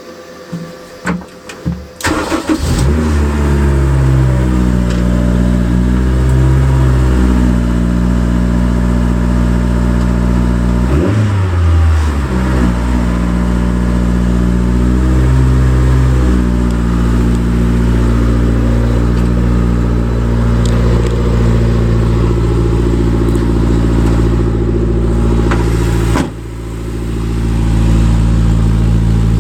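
Honda S2000 four-cylinder engine started after a few clicks of switches, catching about two seconds in. It then runs at idle with the revs stepping up and down several times, and the engine note drops suddenly near the end before climbing back.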